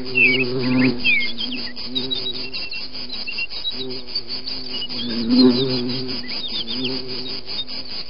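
Birds chirping, with quick rising calls near the start and short high notes after, over a low hum.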